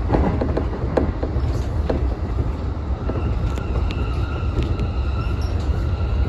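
Electric commuter train running along the track: a steady low rumble with occasional sharp knocks. About three seconds in, a thin steady high whine joins.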